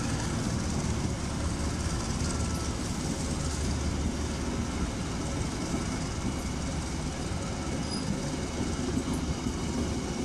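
A train running past on the track, a steady noise of wheels on rails.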